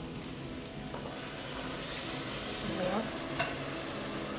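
Chopped meats in tomato sizzling steadily as they sauté in a stainless-steel pot, with one light clink about three seconds in.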